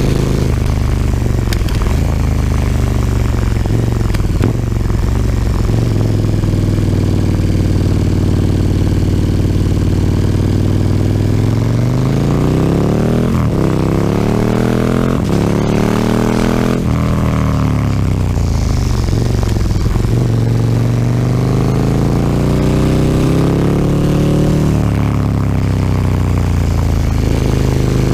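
KTM 1290 Super Duke R's V-twin running through an Akrapovic slip-on exhaust while riding, its engine note holding fairly steady at first. In the second half the revs climb and drop several times through throttle changes and gear shifts.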